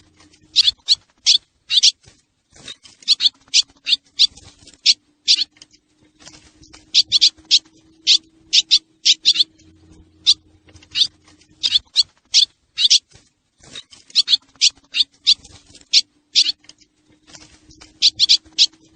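Swallows calling: many short, sharp, high chirps in quick runs of several, with brief pauses between the runs.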